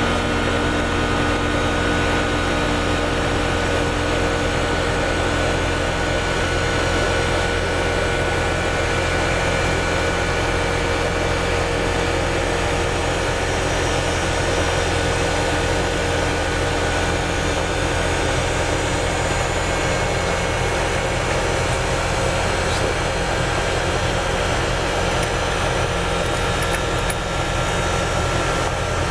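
American Standard air-conditioner condensing unit running steadily, its compressor and condenser fan humming, forced on at the contactor to pump the system's refrigerant down into the condenser.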